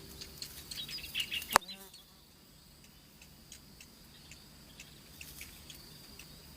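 Wild forest ambience: a steady high insect whine with many short, high bird chirps and ticks, a quick run of chirps about a second in, and one sharp click just after.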